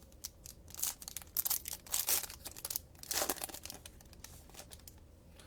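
A foil trading-card pack being torn open, its wrapper crinkling in a run of short rustles between about one and three and a half seconds in.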